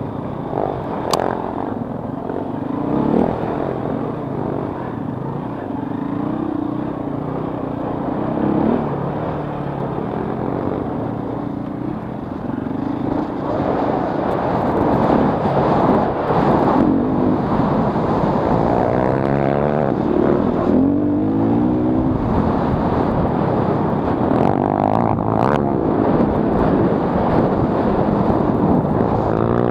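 Single-cylinder four-stroke dirt bike engine of a KTM 450 EXC revving up and down, its pitch rising and falling as it accelerates and shifts gears, louder in the second half.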